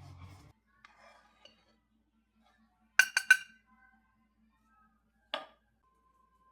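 Tableware set down on a table: three quick, ringing clinks about three seconds in, then a single clink about two seconds later, after a faint rub at the start.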